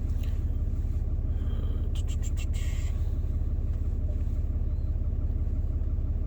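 Ram 2500's 6.7 L Cummins turbo-diesel idling steadily, heard from inside the cab, a deep even rumble. A quick run of clicks with a short high beep about two seconds in.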